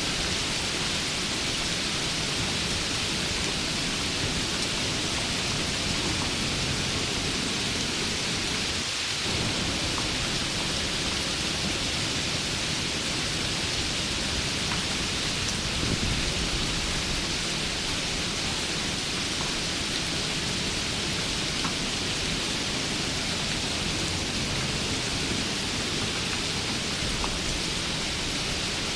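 Steady rain falling as an even hiss, with a low rumble underneath that swells slightly about sixteen seconds in.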